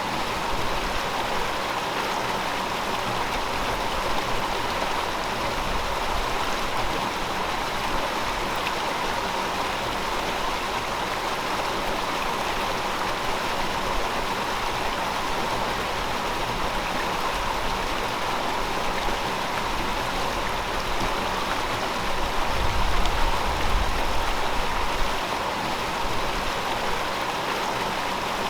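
A shallow river flowing steadily over rocks, an even rushing babble, with a little more low rumble for a few seconds near the end.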